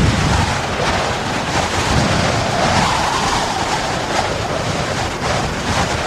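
Wind rushing and buffeting the microphone: a steady rushing noise with an uneven low rumble.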